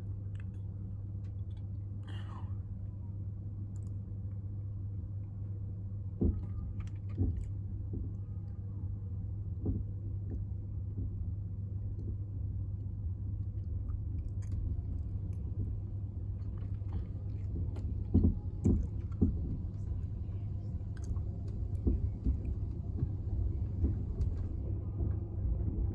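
Steady low rumble and hum of the Caledonian Sleeper train, with a few short knocks and clunks.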